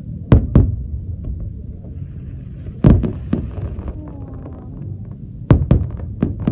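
Fireworks shells bursting overhead: about seven sharp booms, several in quick pairs, the loudest about three seconds in, with a steady low rumble between them.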